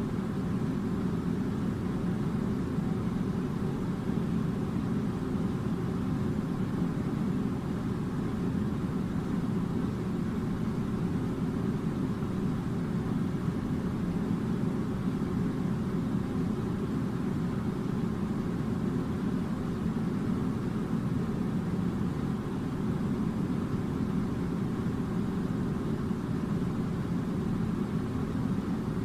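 A steady low rumbling noise that holds at an even level throughout, with no rhythm, tones or sudden sounds.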